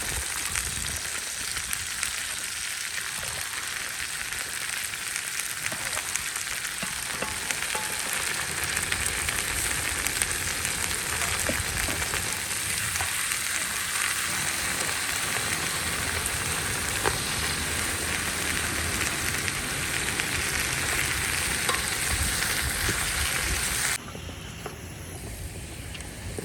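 Food frying in a cooking pot over a wood fire: a steady sizzle. It cuts off abruptly a couple of seconds before the end, leaving a fainter outdoor background.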